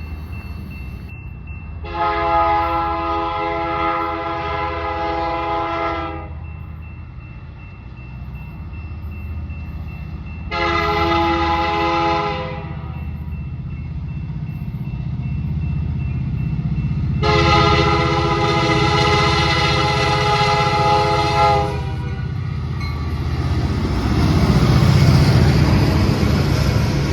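Freight train locomotive's air horn sounding three blasts, long, short, then long, over the steady low rumble of the diesel locomotive. Near the end the rumble swells into a loud rush as the train passes.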